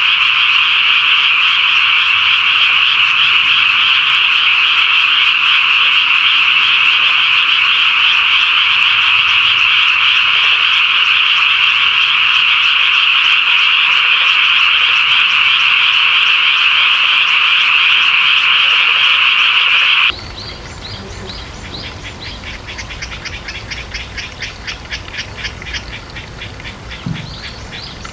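Dense, loud chorus of many frogs calling at a pond, a steady unbroken din. About twenty seconds in it cuts off abruptly to a much quieter scene, where a single fast pulsing call repeats many times near the end.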